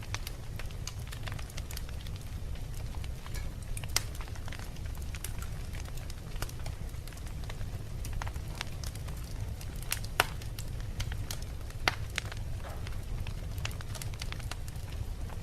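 Wood logs burning in a fireplace: irregular crackling and popping over a steady low rumble of the flames, with sharper pops about 4, 10 and 12 seconds in.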